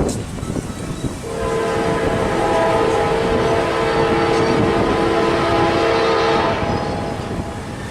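Locomotive air horn on a GE Dash 9 leading an intermodal train, sounding one long chord beginning about a second in and cutting off near the end, over the rumble of the approaching train.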